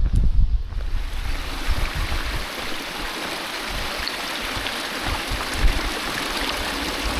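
Low wind rumble on the microphone for about the first second, then the steady rush of a flowing mountain stream.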